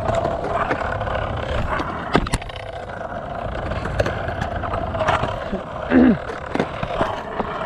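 Skateboard wheels rolling steadily on concrete, with several sharp clacks of the board along the way.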